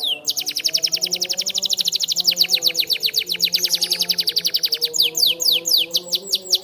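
Canary singing a long, rapid trill of quick falling notes, about ten a second. Around five seconds in it changes to slower, separate falling notes.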